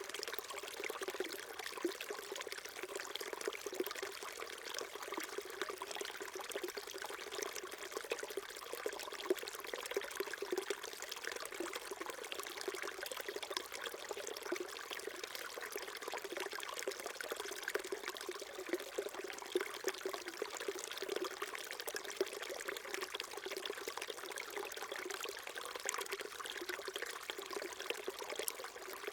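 Small mountain stream trickling and babbling over rocks, a steady burble of water with many small splashes.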